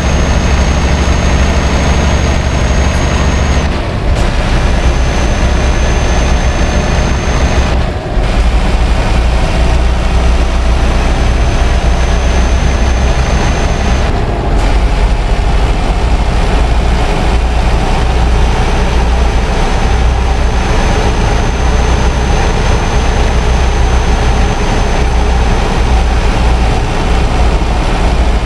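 Scania R560's V8 diesel running steadily under load, pulling a heavy rig of about 80 tonnes, with a deep engine drone that dips briefly three times.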